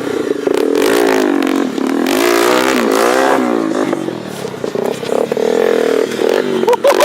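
Enduro motorcycle engine revving up and down on a climb, its pitch rising and falling repeatedly, easing off briefly past the middle and then pulling hard again, with a few sharp clatters.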